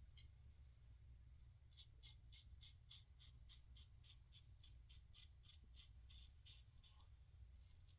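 Safety razor scraping through stubble and lather in quick short strokes, about three or four a second, starting about two seconds in.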